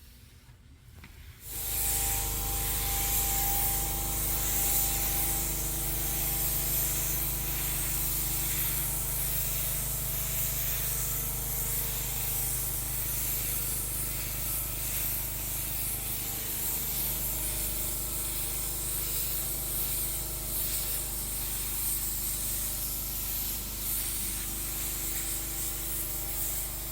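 Paint spray gun hissing steadily as it lays on the pearl mid-coat of a three-stage pearl white finish. It starts about a second and a half in, with a steady hum underneath.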